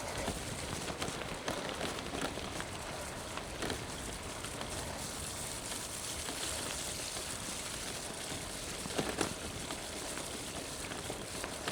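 Steady hiss of light rain, with bicycle tyres rolling over a wet gravel track; a couple of faint clicks partway through.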